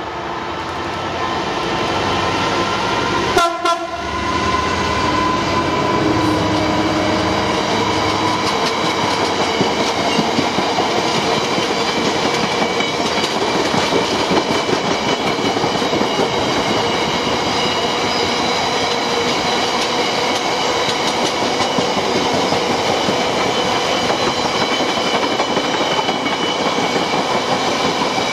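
Class 66 diesel locomotive, with its EMD two-stroke V12, growing louder as it approaches and passes, with a brief thump about three and a half seconds in. A long rake of bogie cement tank wagons then rolls steadily past, wheels clattering and ringing on the rails.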